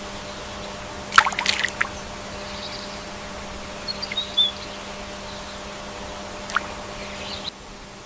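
Water trickling and splashing, with a cluster of splashes about a second in and a smaller splash near the end; a faint high bird chirp comes briefly midway.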